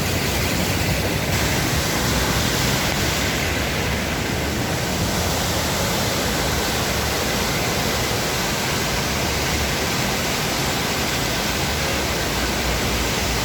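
Floodwater rushing in a steady, even stream.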